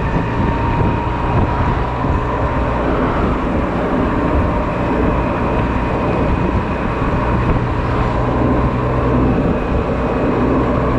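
Honda Silver Wing maxi-scooter's engine running steadily under way, mixed with road and wind rush on the onboard camera's microphone.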